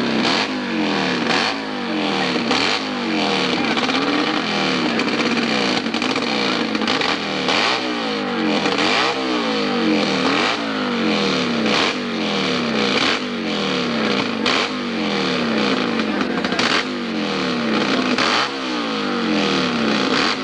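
Pro hillclimb motorcycle engine at high revs, its pitch climbing and falling back over and over, about once a second, as the throttle is worked.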